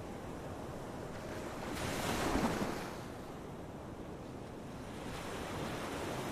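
Sea waves breaking on a beach: one wave swells and crashes about two seconds in, washes back, and another builds near the end.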